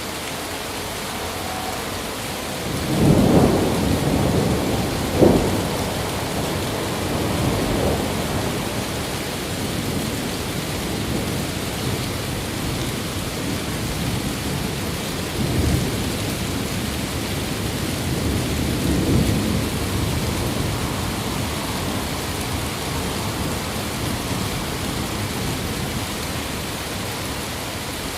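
Thunderstorm: a steady hiss of rain with a roll of thunder about three seconds in and a sharp crack a couple of seconds later, then further, weaker rumbles around the middle.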